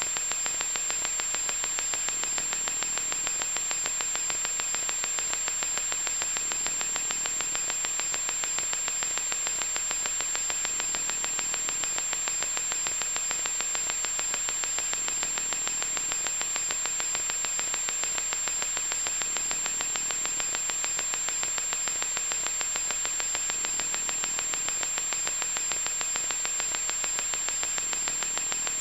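Loud, steady static noise: an unbroken hiss, strongest in the upper-middle range, with a thin high-pitched whine running through it.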